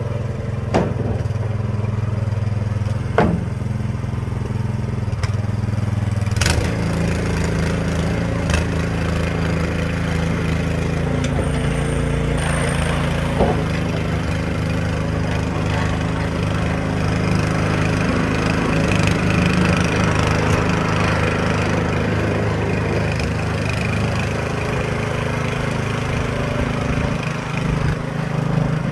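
Small engine running steadily, its pitch shifting once about six seconds in, with a few sharp knocks scattered through the first half.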